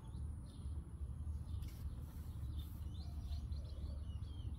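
Small birds chirping: a few short, quick chirps, thickest about three to four and a half seconds in, over a steady low rumble of wind on the microphone.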